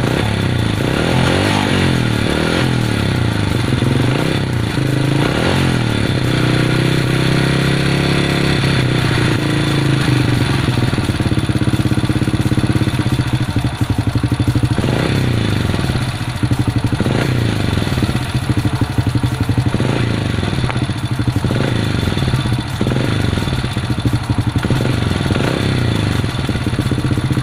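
Honda Supra motorcycle's single-cylinder four-stroke engine running, its revs rising and falling now and then, more often in the second half, as the carburettor's air screw is being set after a hard-starting, misfiring fault.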